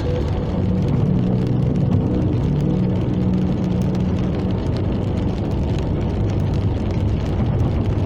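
Car driving along a road: a steady engine and road rumble, with a low engine tone that holds for the first few seconds and then fades into the general noise.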